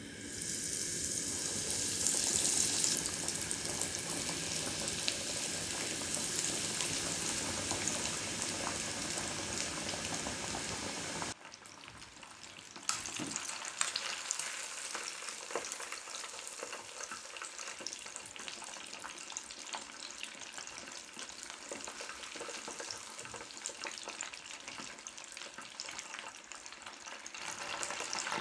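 Breaded, battered chicken legs deep-frying in hot oil: a dense, steady sizzle full of fine crackles. About eleven seconds in it cuts off abruptly, then returns quieter with less low rumble, and it grows louder near the end.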